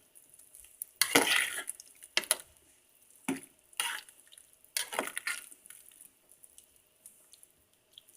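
Spoon stirring a pot of soup, scraping and clinking against the pot in about five strokes over the first five seconds, then dying down.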